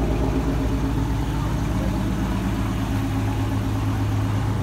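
2016 Dodge Challenger R/T Shaker's V8 idling with a steady, even low rumble.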